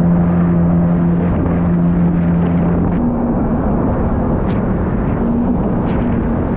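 Jet ski engine running under way over a steady rushing noise; its note steps up in pitch about halfway through.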